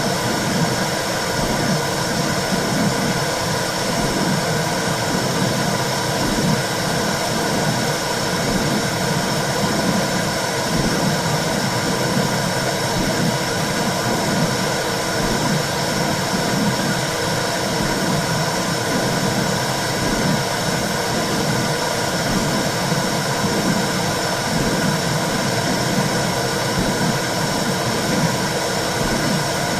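Womb-sound recording for soothing a baby: a steady, loud whooshing noise with a repeating low pulse running through it.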